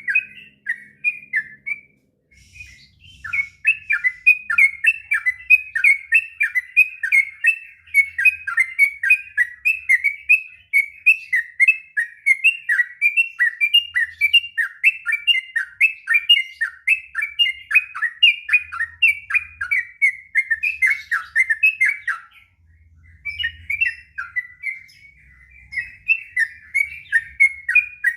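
Yellow-vented bulbul (trucukan) singing a long, rapid song of quick repeated sweeping notes, several a second, breaking off briefly about two seconds in and again about three-quarters of the way through.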